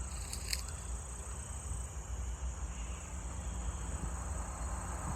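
Steady high-pitched insect chorus with a low rumble underneath, and a few faint clicks about half a second in.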